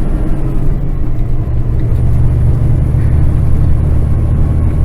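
Kenworth semi truck's diesel engine pulling under light throttle, heard from inside the cab: a deep, steady drone that grows a little stronger about a second and a half in.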